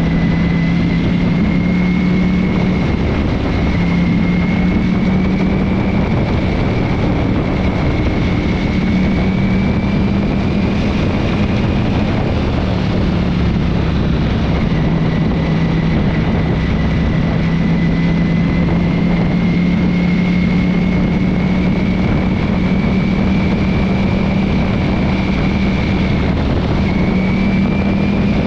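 Ducati V4 motorcycle riding at a steady pace: its engine runs at a fairly constant note under a loud, steady rush of wind and road noise. The engine note dips and picks up again about three seconds in and once more near the end.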